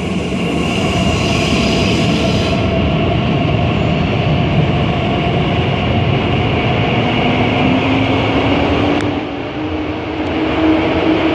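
Train running on the track with a steady, loud rumble and a few steady tones. In the second half a whine slowly rises in pitch.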